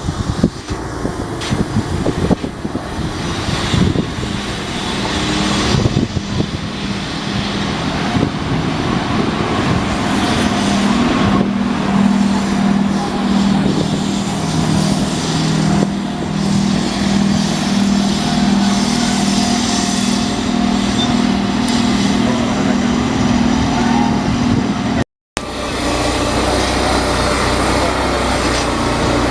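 Railway locomotive running, with a steady low droning hum that sets in a few seconds in and holds. The sound cuts off abruptly near the end and resumes as a steadier noise.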